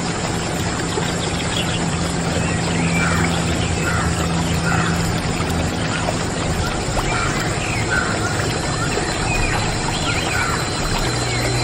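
Short bird chirps, repeated every second or so, over a steady hiss and a low hum.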